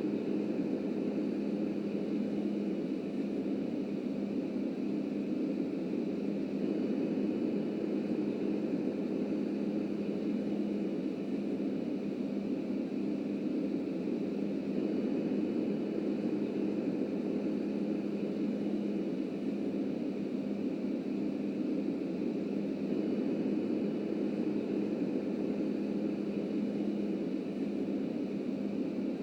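Steady rumble of a subway train with a low, even hum.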